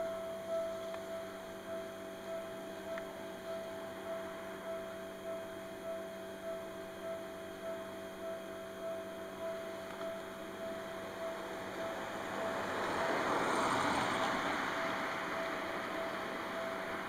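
Railway level-crossing warning bell ringing in a steady electronic ding-ding, a little under two strokes a second, while a Seibu New 101 series electric train passes: its running noise swells about three-quarters of the way through and then eases off.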